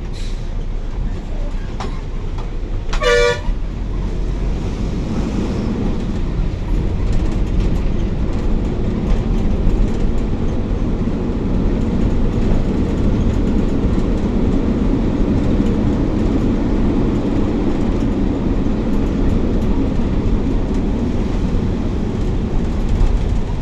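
Steady low rumble of a bus running on the road, engine and tyre noise heard from inside the bus. A vehicle horn sounds once, briefly, about three seconds in.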